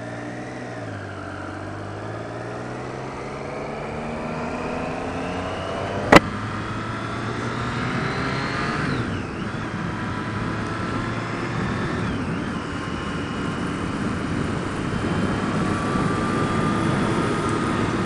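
Motorcycle engine under way, its note rising gradually, dipping briefly about nine seconds in, then holding steady, with wind noise. There is a single sharp click about six seconds in.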